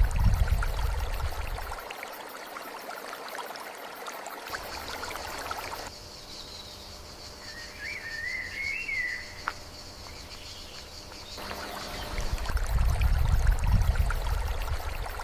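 Nature ambience of a stream's steady rushing water, with strong low rumbling gusts at the start and again near the end. Midway the water sound drops out abruptly, and a bird gives a short warbling call.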